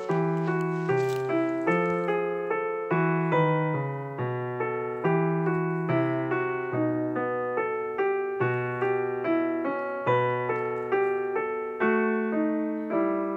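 Background piano music: a slow, gentle melody of single struck notes over low bass notes.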